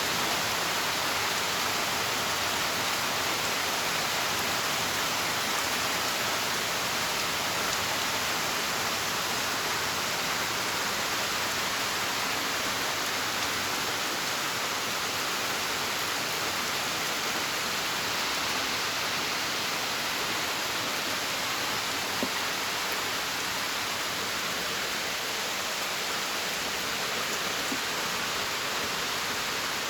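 A steady, even hiss of rushing water that holds unchanged throughout, with no distinct drops, splashes or breaks.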